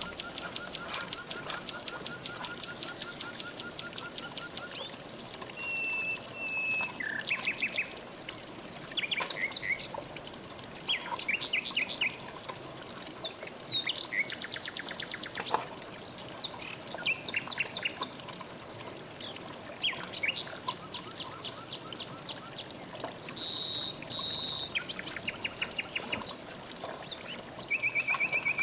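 Several songbirds calling and trilling over the steady rush of a flowing stream, with a constant high buzz running underneath. The calls come as short chirps and rapid rattling trills, one after another.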